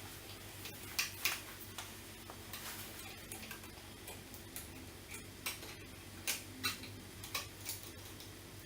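Flathead screwdriver working a pin loose in the handle bracket of a Pegas CrafTap 3.0 growler filler: faint, irregular small clicks and ticks of metal on metal.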